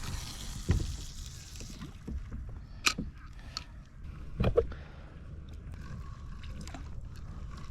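Kayak being paddled at sea: water sloshing around the hull and paddle, with a few sharp knocks about one, three and four and a half seconds in.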